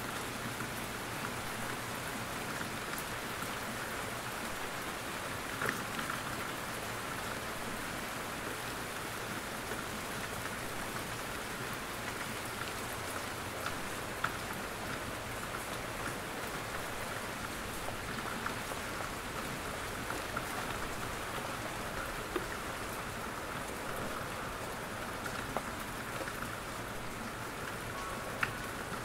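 Steady rain falling in a forest, an even hiss with scattered louder drops pattering from the trees.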